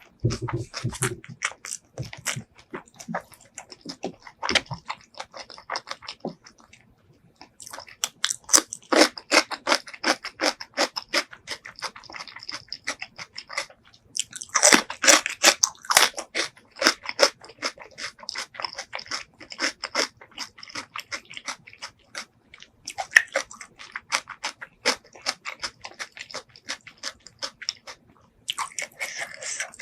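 Close-miked chewing of spicy pork leg curry and rice: quick runs of wet mouth clicks and crunchy bites, with a short pause about seven seconds in.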